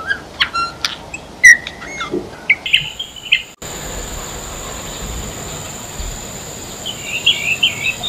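Bird calls: short sharp chirps and whistled notes of a Eurasian bullfinch, cutting off abruptly about three and a half seconds in. Then a steady hiss with a constant high whine, and a quick run of chirps of a blue-throated bee-eater near the end.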